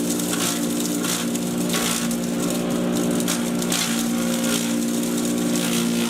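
Patriot 1.5-HP electric chipper shredder running with a steady motor hum, its blades chewing through material in repeated irregular crunches.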